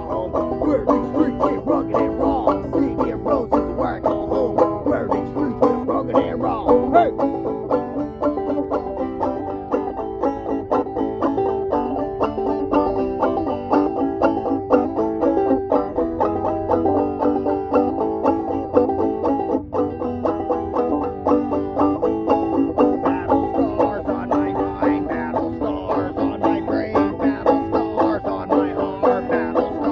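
Bluegrass-style string band music, with a banjo picking a fast, steady run of notes.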